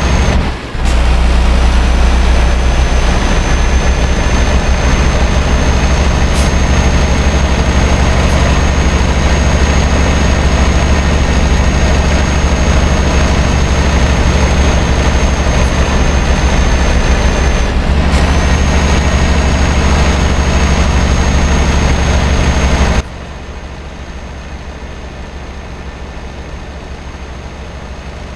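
Scania R560's V8 diesel engine running steadily with a loud low drone, the truck hauling an 80-tonne load. It breaks off briefly near the start and about 18 s in, and about 23 s in the sound drops suddenly to a much quieter level.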